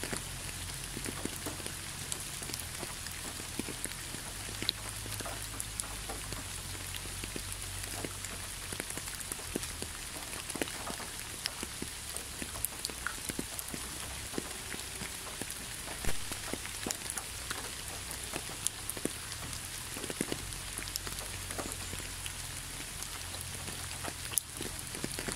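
Spring rain falling on leaves: a steady hiss with many separate drop hits scattered through it, one louder hit about sixteen seconds in, over a low steady rumble.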